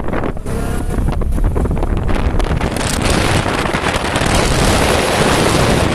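Wind buffeting the microphone over a low, steady rumble of travel, the rush growing stronger and brighter about halfway through.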